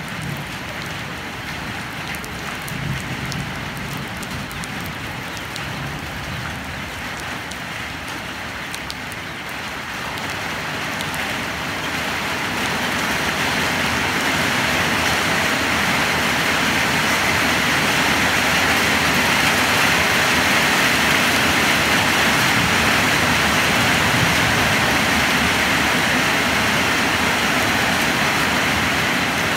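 Rain falling steadily, growing heavier and louder from about ten seconds in and then holding steady.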